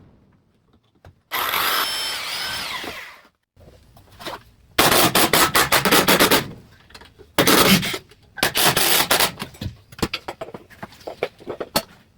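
Power drill driving screws into wood framing: a motor whine that rises and falls about a second in, then several bursts of rapid rattling as the screws are driven.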